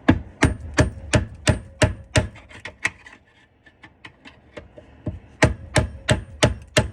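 Hammer blows on a rusted, seized garbage disposal or drain fitting, about three sharp strikes a second with a faint metallic ring. There are two runs of strikes, with a pause of about two seconds in the middle.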